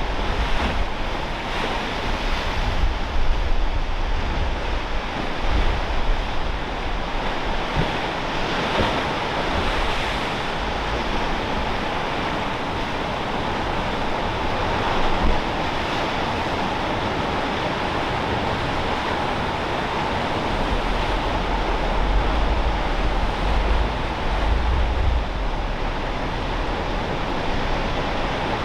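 Ocean surf washing steadily, with gusts of wind rumbling on the microphone near the start and again later.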